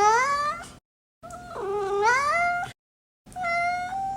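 Cat meowing three times in long, drawn-out calls, the first two rising in pitch and the last held level near the end, with short gaps of dead silence between them.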